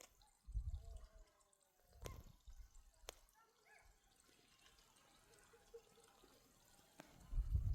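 Faint dripping and trickling water, broken by low rumbling buffets about half a second in, around two seconds in, and more strongly near the end, with a few sharp clicks.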